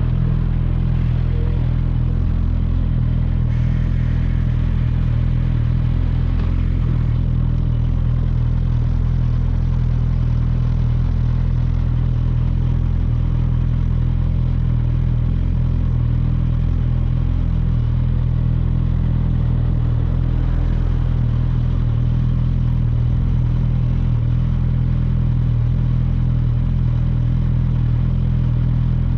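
Suzuki GSF 650 Bandit's inline-four engine with an Akrapovič exhaust running at steady revs while riding, its pitch holding level with no revving.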